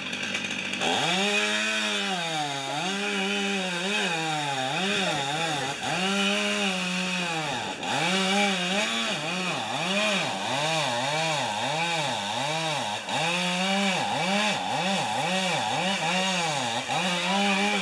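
Two-stroke chainsaw running in a cut. Its engine speed repeatedly drops and recovers about once a second as the saw loads and is revved.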